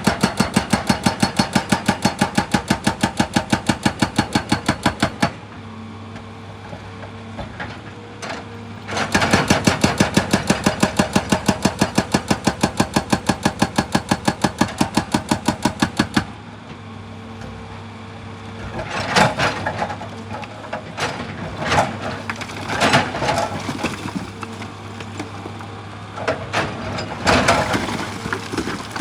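Excavator's hydraulic breaker hammer pounding in two long runs of rapid, even blows, each several seconds long, over the excavator's steady engine hum. In the last third, irregular knocks and scrapes.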